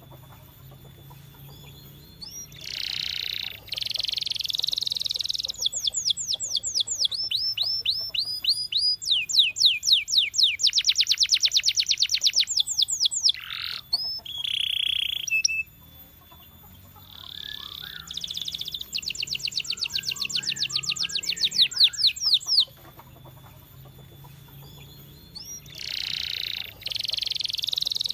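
Domestic canary singing in long phrases of rapid repeated high notes and fast trills, broken by a few short pauses.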